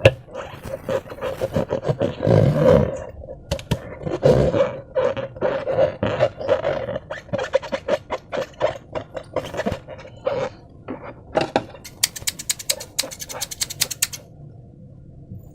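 Slime squelching and clicking as it is squeezed and worked, in dense irregular bursts, with a run of rapid fine crackles near the end.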